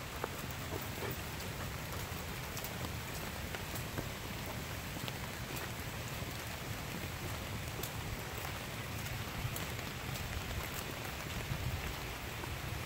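Rain coming down hard on the forest foliage: a steady hiss with scattered sharp ticks of single drops.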